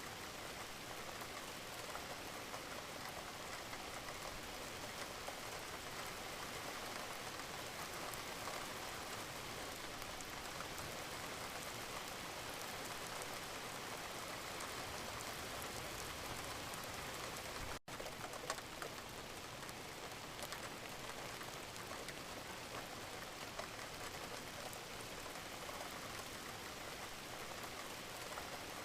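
Steady gentle rain falling, an even hiss with scattered drop ticks. It cuts out for an instant about two-thirds of the way through, then carries on unchanged.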